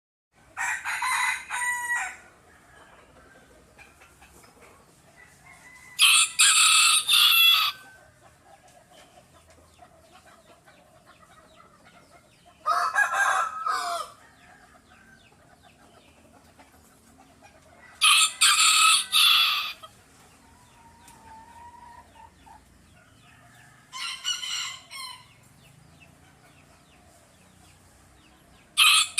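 A rooster crowing again and again, one crow about every six seconds, with faint background noise between crows.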